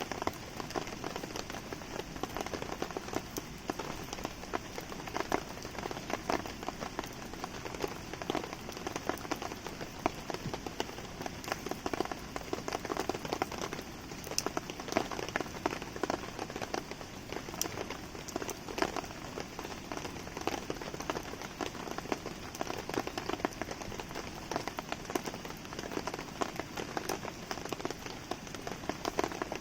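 Steady rain falling and pattering, with a wood campfire crackling under it in many small sharp pops.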